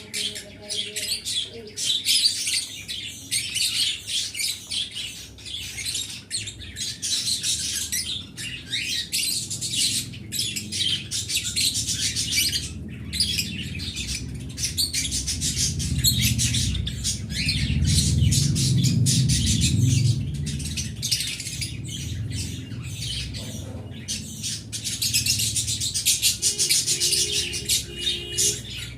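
A flock of small cage birds chirping and chattering continuously, many calls overlapping. A low rumble swells up under the chatter around the middle and fades again.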